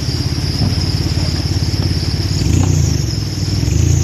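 A vehicle engine running steadily close by, with a low, even pulse. It swells a little a couple of times, as if given slight throttle.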